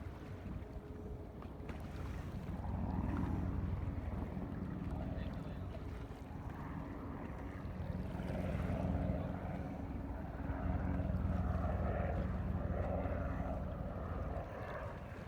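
Motorboat under way: a steady low engine rumble with wind buffeting the microphone.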